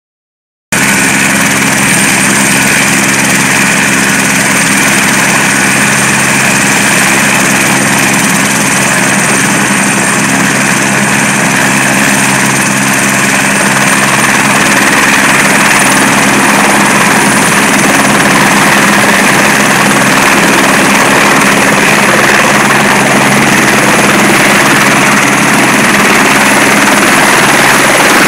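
Eurocopter AS350 B3 helicopter running close by: the steady sound of its single Arriel turboshaft engine and rotors, with a thin high turbine whine on top. It cuts in abruptly near the start, and the whine edges slightly higher and the sound a little louder midway.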